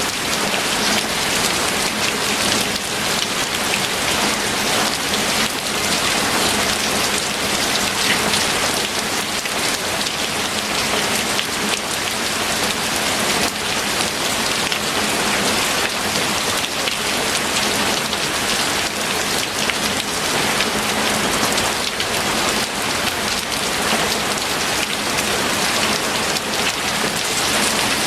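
Steady heavy rain falling on a surface, a dense even patter of many drops.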